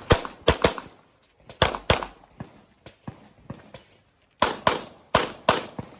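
Handgun shots fired in quick pairs, about ten in all, with a gap of fainter shots in the middle and a second loud string after about four seconds.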